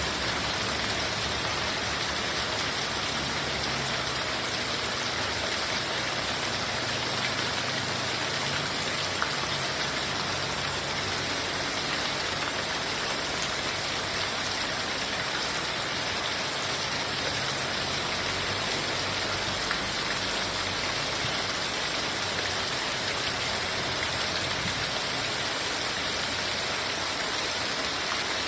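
Heavy rain falling steadily in an even hiss, with a few single drops ticking close by.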